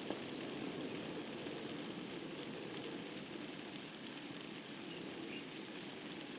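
Wood fire burning in a fireplace: a steady low rushing of the flames with sharp crackles and pops from the burning logs, two close together near the start and a few fainter ones later.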